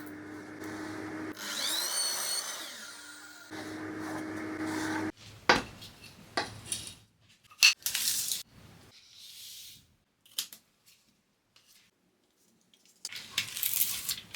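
A small electric power tool's motor runs with a steady hum for about five seconds, its pitch shifting partway, then stops abruptly. It is followed by several sharp knocks and clatters of wooden parts being handled, and a brief scraping burst near the end.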